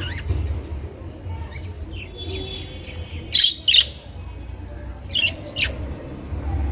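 Budgerigars chirping and squawking in short, sharp calls, the loudest pair about halfway through, over a steady low rumble.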